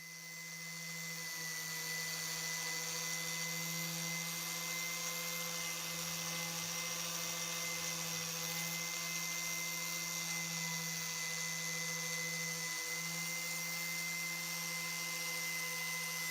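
An electric power tool running steadily at one constant speed, a hum with a hiss over it, swelling up over the first two seconds.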